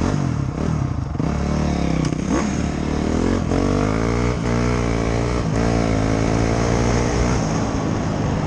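Dirt bike engine running, its pitch rising and falling repeatedly as the throttle is worked.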